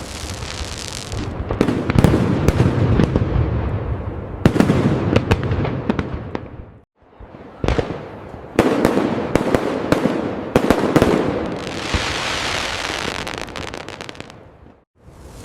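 Fireworks display: a run of aerial bursts, each a deep boom with sharp crackling after it. A long hissing crackle follows near the end.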